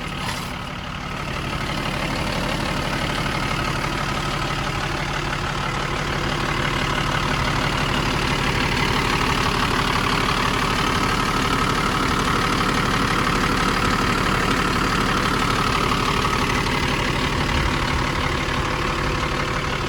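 1989 Toyota Land Cruiser's straight-six turbo diesel engine idling steadily. It gets a little louder about two seconds in.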